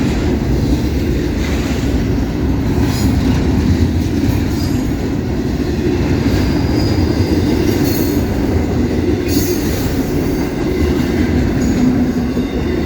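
The last cars of a long CSX intermodal freight train rolling past close by: a loud, steady rumble of steel wheels on rail with rattling, and brief high wheel squeals about halfway through.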